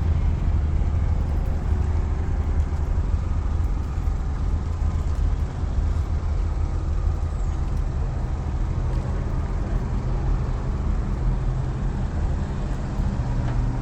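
A truck engine running steadily with a low, even drone.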